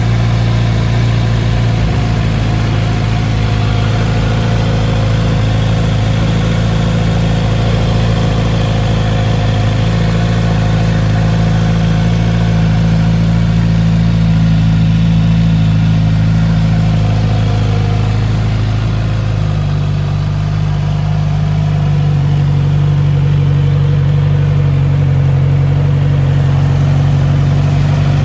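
Kawasaki Z900RS's 948 cc inline-four engine running steadily at idle. About two-thirds of the way through, its note shifts slightly and then holds steady again.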